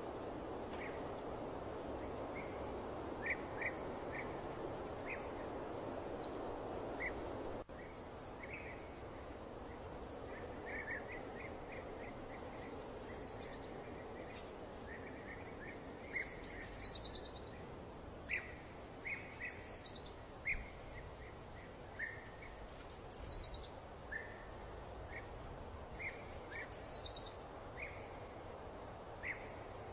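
Birds chirping over a steady background hiss: scattered short chirps, and later a quick falling call repeated every few seconds. The hiss drops a little about a third of the way in.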